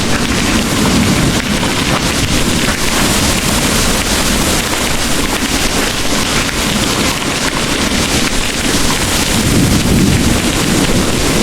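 Heavy rain pouring steadily in a thunderstorm, with a low rumble of distant thunder that eases just after the start and swells again near the end.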